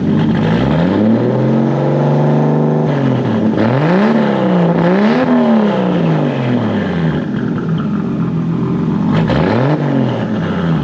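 Turbocharged MK4 Toyota Supra with a straight-piped exhaust, revved from idle: one rev held for about two seconds, two quick blips, a drop back to idle, then a short blip near the end.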